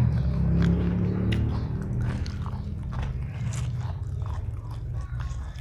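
A person chewing crunchy food close to the microphone: many small irregular crunches and bites over a steady low hum.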